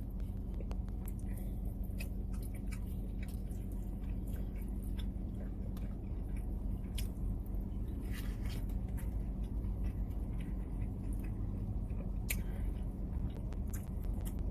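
A person chewing food, with scattered short wet clicks and smacks of the mouth over a steady low hum.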